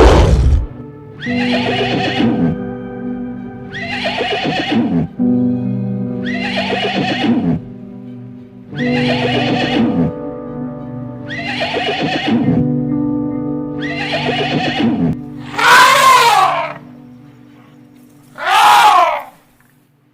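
A horse neighing again and again, a call about every two to two and a half seconds, each falling in pitch, over background music with held notes. Near the end come two louder, shorter calls.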